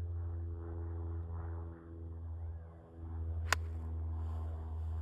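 A golf club strikes the ball once, a single sharp crack about three and a half seconds in, over a steady low hum.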